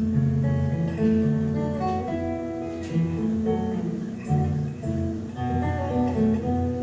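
Acoustic guitar playing an instrumental passage between sung verses, a melody of picked notes over a moving bass line.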